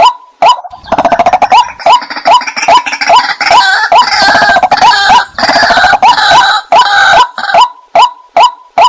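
White-breasted waterhen calling: a steady run of repeated 'kwak' notes, about two a second. From about a second in until near the end it turns into a louder, busier stretch of overlapping, chattering calls, then goes back to the single repeated notes.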